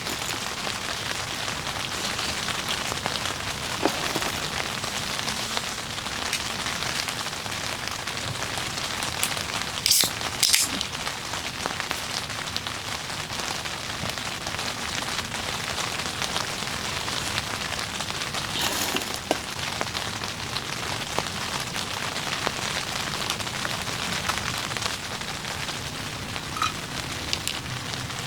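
Heavy rain falling steadily on surfaces, an even patter. Two brief sharp sounds about ten seconds in, and another shortly before two-thirds of the way through, rise above it.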